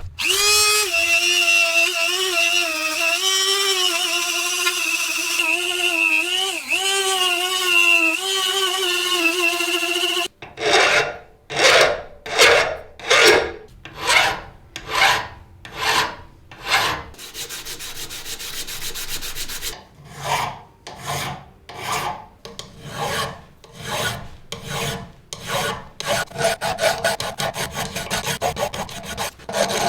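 A steady, slightly wavering squeal for about ten seconds, then hand filing on metal: rhythmic rasping back-and-forth strokes that speed up near the end.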